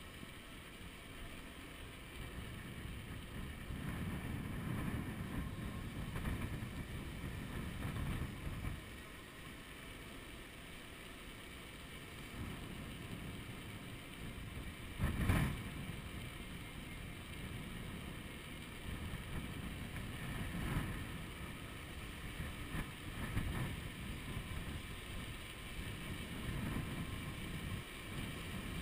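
Wind buffeting a chest-mounted action camera's microphone during a bicycle ride, a low rumble that swells and eases in gusts. There is one short, louder blast about halfway through.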